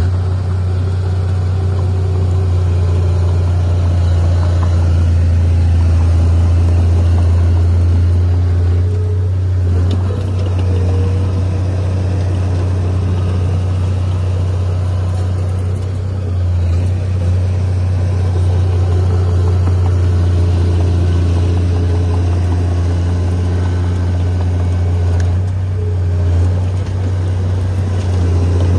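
Heavy diesel engine of earthmoving equipment running steadily, a deep low drone with brief small dips in level a few times.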